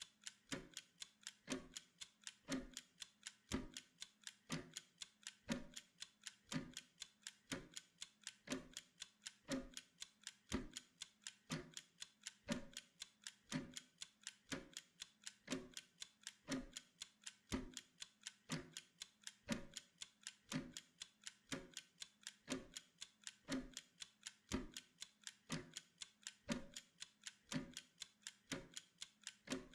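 Steady clock ticking, about two even ticks a second in an alternating tick-tock.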